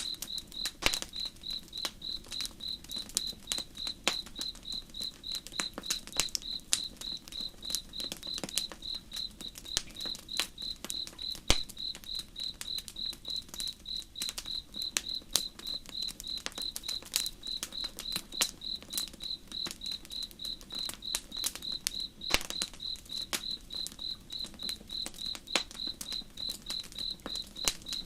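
Campfire crackling with scattered sharp pops, over a cricket chirping steadily at about three chirps a second.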